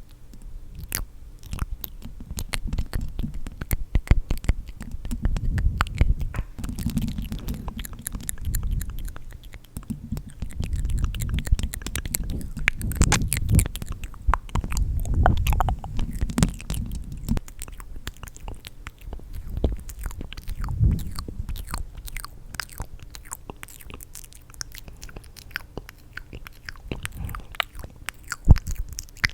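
Close-miked ASMR mouth sounds: a dense run of wet clicks, smacks and tongue pops, with no words.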